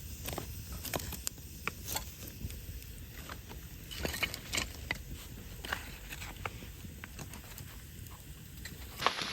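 Wood campfire crackling, with scattered irregular pops and snaps.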